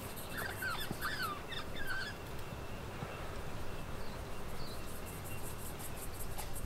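Outdoor ambience: a bird gives a quick run of short chirping calls in the first two seconds, over a faint steady high-pitched hiss with fine regular ticking.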